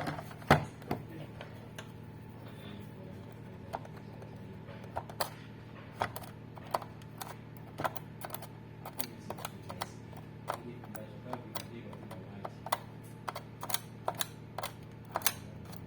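Irregular sharp clicks and taps, a few a second at times, the loudest about half a second in, over a steady low hum.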